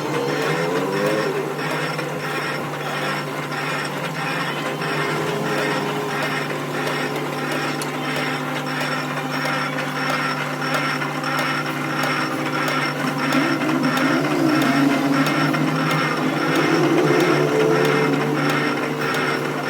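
Workshop machinery running steadily, a constant low hum with a rapid, regular mechanical clatter over it.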